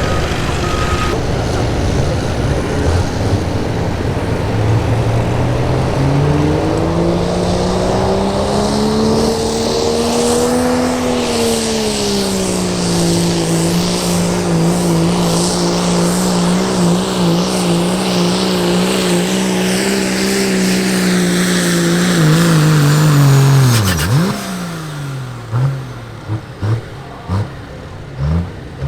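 Pro street diesel pulling truck's engine under full load on a sled pull. The engine note climbs over the first several seconds, eases and holds steady, then drops away sharply about three quarters of the way in as the pull ends. It is followed by several short blips of the throttle near the end.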